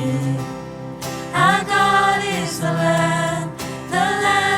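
Choir singing a worship song over instrumental accompaniment. Long held notes, with a brief softer gap about a second in before the voices come back.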